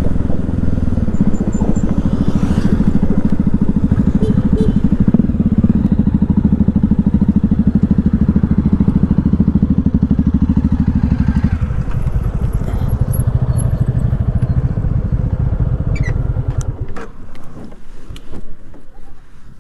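Motorcycle engine running under way, then dropping to a lower, quieter note about two-thirds of the way through as the bike slows and pulls up. It cuts off near the end, leaving a few sharp clicks.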